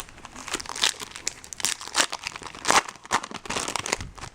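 Wrapper of a 2012 Bowman Chrome baseball card pack crinkling and tearing as it is opened, a quick series of short rustles and rips.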